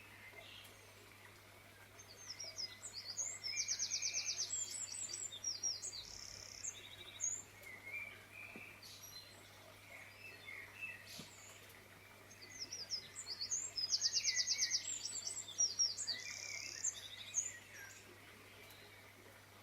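A songbird singing: a long, fast, trilling song phrase heard twice about ten seconds apart, with scattered short chirps in between.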